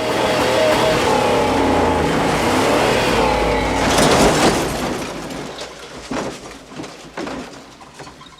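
A car engine revving, its pitch rising and falling, then a loud burst of noise about four seconds in, followed by scattered knocks as the sound dies away.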